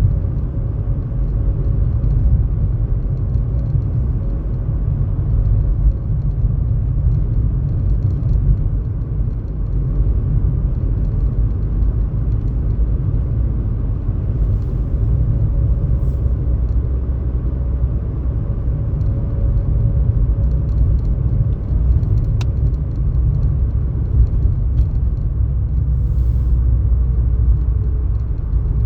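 Steady low rumble of a car driving, with a faint steady hum that drops in pitch near the end as it slows.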